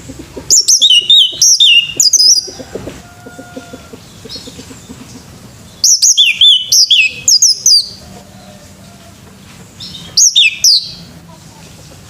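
Male orange-headed thrush singing: three loud bouts of quick, sweeping high notes, starting about half a second in, again around six seconds in, and a short one near the end.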